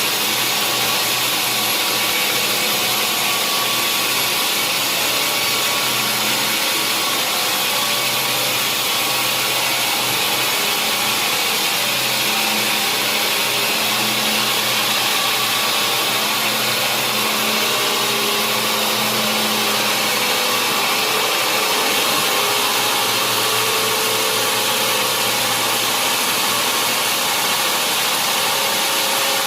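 Sawmill saw cutting steadily through a large mahogany log: a continuous high hiss of the blade in the wood over a steady low machine hum.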